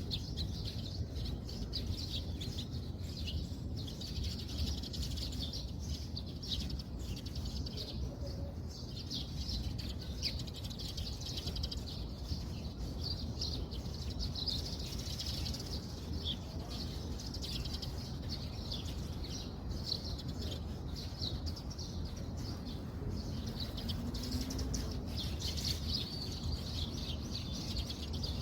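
Birds chirping, many short overlapping high calls, over a steady low rumble.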